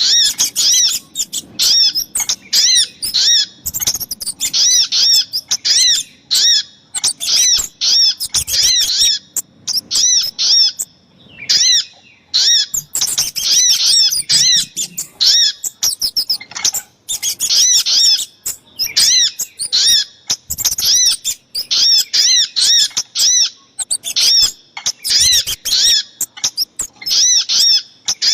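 Rapid runs of short, sharp, high-pitched bird call notes, several a second with brief breaks: a bird-lure recording of sogok ontong (little spiderhunter) calls, given as a female calling a male, combined with kemade calls.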